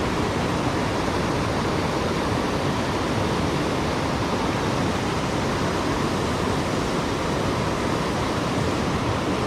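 Waterfall on a river swollen by heavy rain, rushing steadily: a loud, even noise of falling water.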